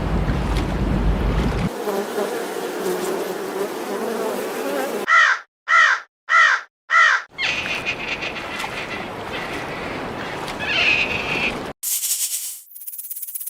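A crow cawing four times in quick succession, about two calls a second, between stretches of steady noisy background that change abruptly several times.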